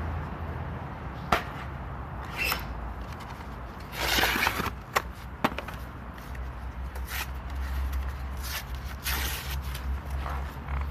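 Handling and scraping sounds: several light clicks and short scrapes, with a longer scraping rasp about four seconds in, over a steady low rumble.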